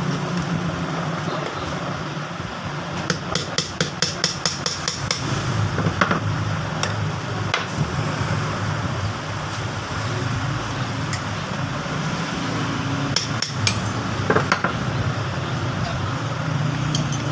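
Tools knocking on the metal parts of a ceiling fan being taken apart: a quick run of light taps, like hammer blows, about three seconds in, then scattered single knocks. A steady low hum runs underneath.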